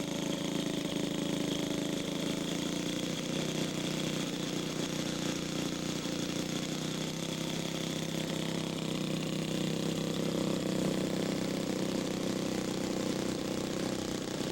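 Large-scale model aircraft's gas engine running steadily at a constant speed, not passing by.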